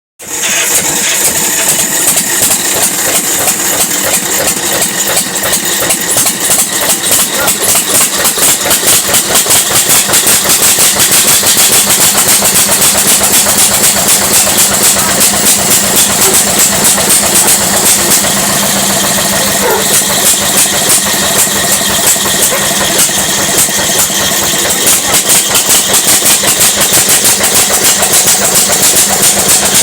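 Steyr 30 hp tractor engine running with a fast, slightly uneven pulsing beat, on its first run after twenty years standing unused. It grows louder over the first several seconds, then settles into a steady run.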